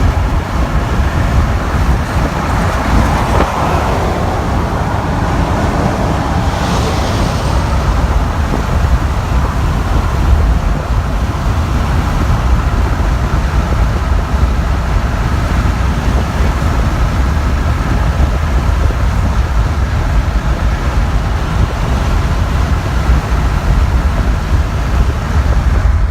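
Freight train loaded with military vehicles rolling past: a steady, loud low rumble and clatter that goes on without a break.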